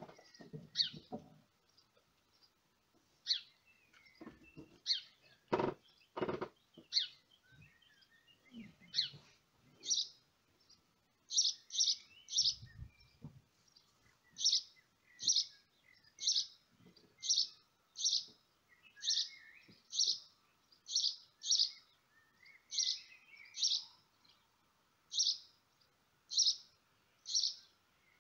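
A small bird chirping over and over, short high chirps about once a second, coming more evenly in the second half. Two dull knocks about six seconds in.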